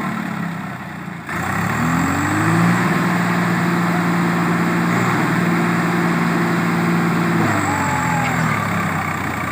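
Swaraj tractor's diesel engine revved up about a second in, held at steady high revs for several seconds, then let back down near the end.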